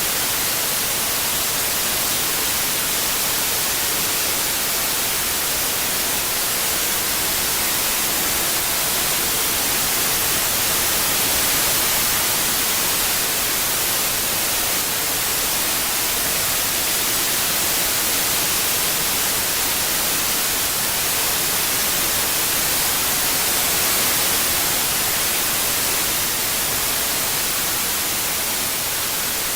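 Steady synthetic white noise: an even, unbroken hiss, brightest in the high frequencies, with no rhythm or pitch.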